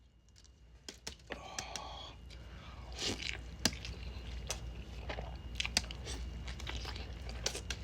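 Close-miked chewing of a mouthful of burrito, with many small sharp mouth clicks and smacks starting about a second in.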